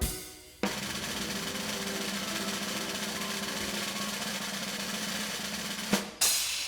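Snare drum roll lasting about five seconds, opened by a single hit and ending with a sharp hit and a short bright crash.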